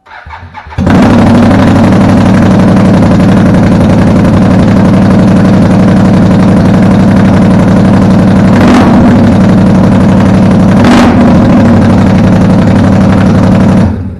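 Can-Am Outlander 570 XMR's 570 cc V-twin engine starting and then running loud and steady with no muffler, straight-piped after the stock exhaust was removed. Two short sharp bursts come about two seconds apart late on, and the sound cuts off suddenly just before the end.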